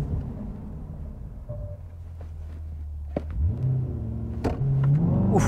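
2023 Corvette Stingray's 6.2-litre pushrod V8 with the performance exhaust, heard from inside the cabin. It holds a steady low note, then about three seconds in the car launches at full throttle and the revs climb through a quick dual-clutch upshift, getting louder toward the end.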